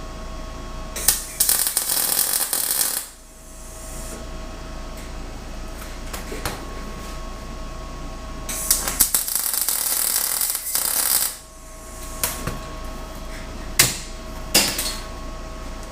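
A shop tool running in two hissing bursts of about two seconds each, some seven seconds apart, followed by a few sharp clicks and knocks. A faint steady hum runs underneath.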